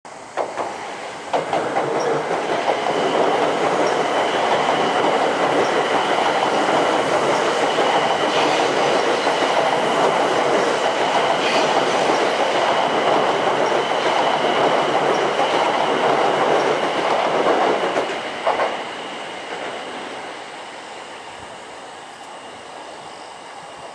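JR East E4 series 'Max' double-decker Shinkansen passing at speed: a loud, steady rush of train noise that comes in suddenly about a second in, with a few clacks. It holds for about fifteen seconds, then fades as the train draws away.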